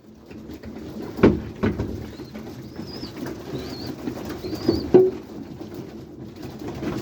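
A flock of pigeons cooing in a loft, with a few sharp taps and knocks among them. Three short, thin, high calls come near the middle.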